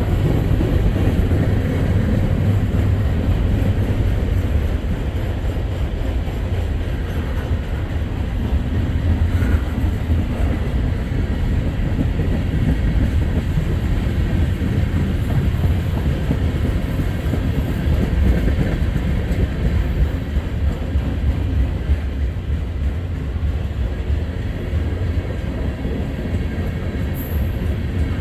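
Freight train rolling past, a loud, steady rumble of the cars' wheels on the rails.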